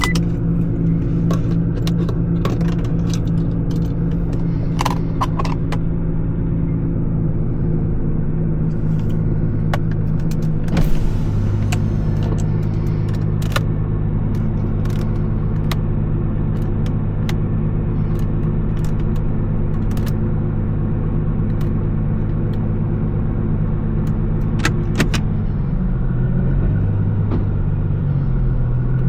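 Nissan R35 GT-R's twin-turbo 3.8-litre V6 running steadily at an even engine speed, the revs starting to shift and waver in the last few seconds. Occasional light clicks sound over it.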